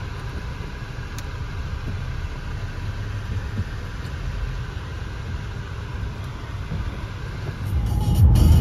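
Steady low rumble of a Renault Captur's engine, heard from inside the car's cabin as it sets off, growing louder near the end.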